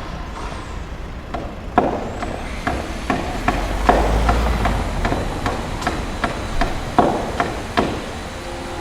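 Heavy construction machinery working: a low engine rumble with a dozen or so sharp knocks and clanks at irregular intervals, the rumble swelling about halfway through.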